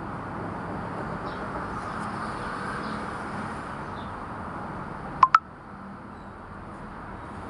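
Steady background hiss with faint high chirps, broken about five seconds in by two sharp clicks in quick succession, the loudest sound here.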